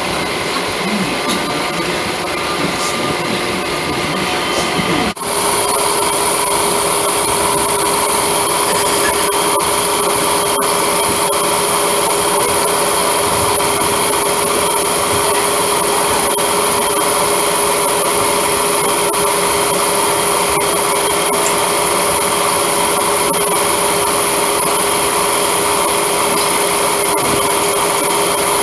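Electric suburban local train running along the track, heard from its open doorway: continuous wheel-and-rail running noise. About five seconds in the sound changes suddenly to an even, steady grinding whine that holds a constant pitch.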